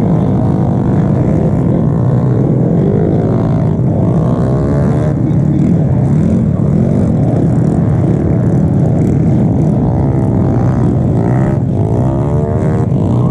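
Small-displacement motorcycle engines, such as underbone race bikes, running over a steady low rumble. Their pitch rises and falls several times as they rev, most clearly a few seconds in and again near the end.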